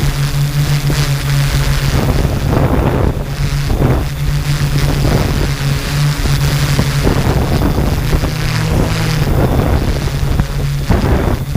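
Small quadcopter drone's motors and propellers humming steadily with a low, even pitch, under rough wind noise on the microphone. The pitch wavers briefly about eight to nine seconds in.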